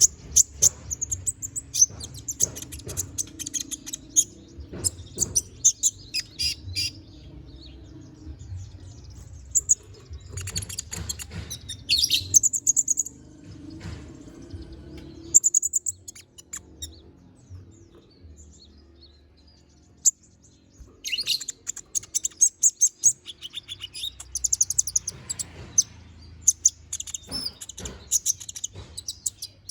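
Konin (kolibri ninja) sunbird singing in bursts of rapid, high, twittering chirps and trills, varied and full of song phrases. The singing stops for several seconds about halfway through, then resumes.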